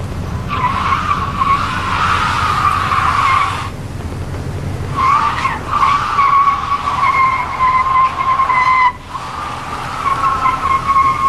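Car tyres squealing in long skids, three times: from about half a second in for three seconds, again from about five seconds to nine, and once more near the end, over a steady low traffic rumble.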